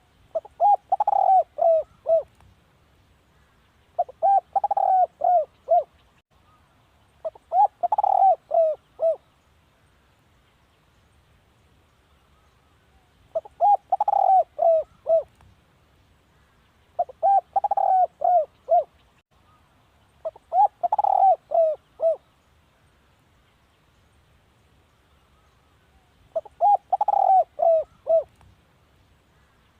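Spotted dove cooing: seven phrases of several short coos each, a few seconds apart.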